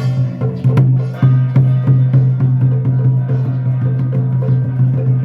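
Temple ritual percussion music: quick, regular knocking beats over a steady low hum.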